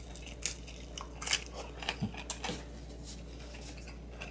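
A person chewing food with soft, wet mouth clicks and smacks, a few scattered through the stretch, over a faint steady low hum.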